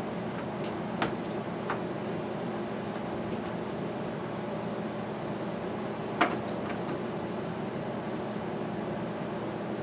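Steady fan-like mechanical hum, with a few sharp clicks and taps from work with hand tools: one about a second in, another near two seconds, and a louder one about six seconds in.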